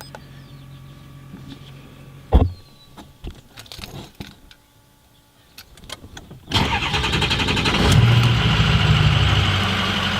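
A Ford 6.0 Powerstroke V8 turbodiesel with a 4-inch straight-pipe exhaust fires up about six and a half seconds in, its revs swell briefly, then it settles into a steady idle. Before it starts there is a faint hum with a few clicks and one sharp knock.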